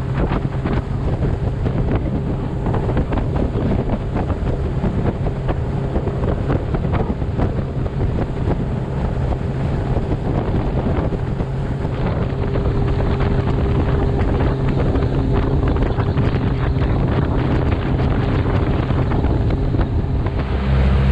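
Heavy wind buffeting the microphone over the steady drone of a boat motor running.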